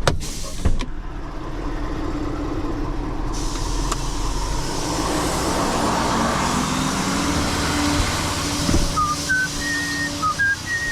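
Tow truck running steadily with a continuous mechanical hum, growing louder with added hiss a few seconds in. A couple of clicks at the start and a few short high chirps near the end.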